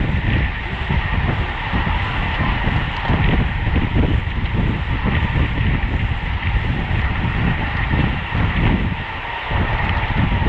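Wind buffeting the microphone at racing speed on a road bicycle, with a steady rush of road and tyre noise.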